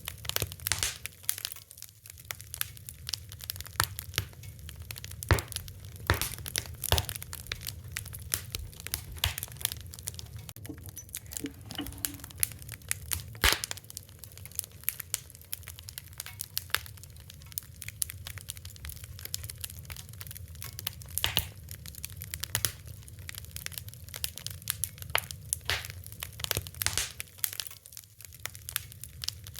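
Fire crackling, with dense, irregular sharp pops and snaps over a steady low rumble.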